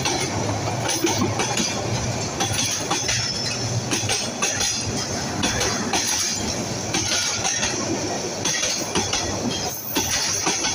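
Bangladesh Railway intercity passenger coaches rolling past close by, steel wheels clattering over the rail joints with a steady high squeal of wheels on the rails.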